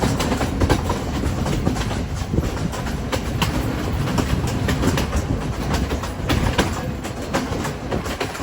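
Train running on the rails: a steady rumble with wheels clattering irregularly over the track joints.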